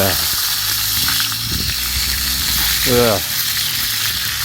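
Chicken skin sizzling and spitting as it grills on a net over a wood campfire, its dripping fat flaring in the flames. Two short sounds slide down in pitch, one at the start and one about three seconds in.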